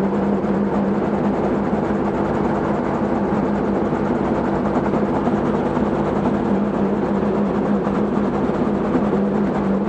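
Robinson R44 helicopter running steadily on the ground during warm-up before a test flight: the even drone of its six-cylinder Lycoming piston engine together with the turning main rotor.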